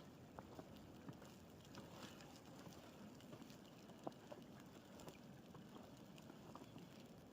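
Faint footsteps crunching in snow, with soft irregular ticks over a low hiss.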